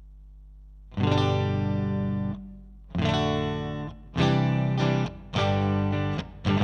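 Electric guitar, a Fender Stratocaster played through a Line 6 Helix amp-and-cab model, strumming five chords with some distortion, each ringing about a second and then cut off. A steady amp hum is heard before the first chord, which comes about a second in.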